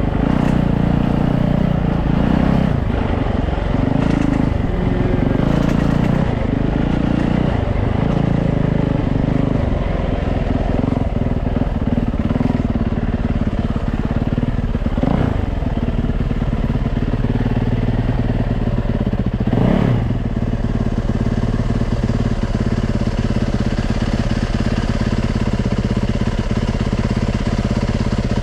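Yamaha YZ450F dirt bike's single-cylinder four-stroke engine running loud, its note pulsing with the throttle over the first several seconds and then holding steady, with two brief sweeps of sound about fifteen and twenty seconds in.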